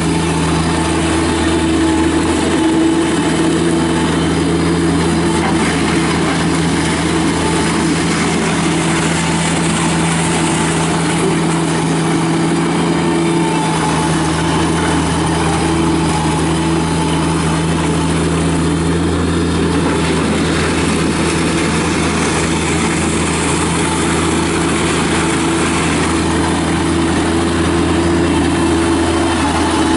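The Kubota diesel engine of a Bobcat MT85 mini track skid steer running steadily at a constant speed. The machine has a remanufactured replacement engine.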